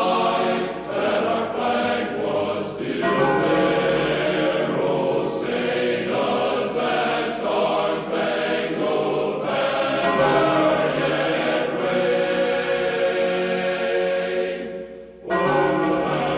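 A choir singing slow, sustained chords, with a short break near the end before the singing resumes.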